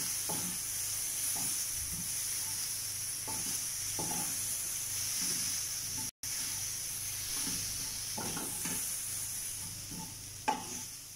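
Onion and tomato masala sizzling in a stainless steel pan while a wooden spatula stirs it, with short scrapes against the pan every second or so. The sound drops out for an instant about six seconds in.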